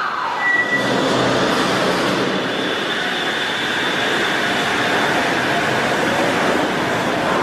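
A train running, a steady rushing noise with a faint high whine, and a short high beep about half a second in.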